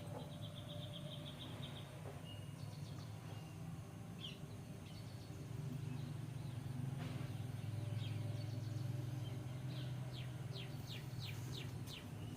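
Birds chirping: a quick trill about a second long at the start, scattered single chirps, then a fast run of short chirps near the end, over a low steady hum.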